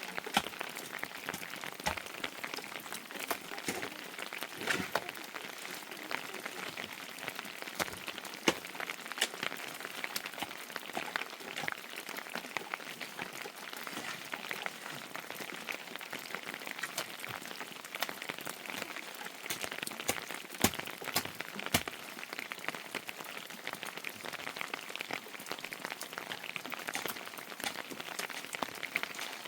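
Steady rain, with many sharp drop impacts scattered through it.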